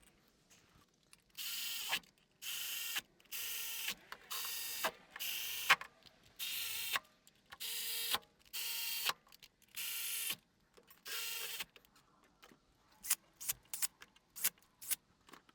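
A small cordless power tool running in about ten short bursts of half a second or so, each a buzzing whine, as the cylinder head bolts are run down before torquing. Then comes a quick run of sharp clicks near the end.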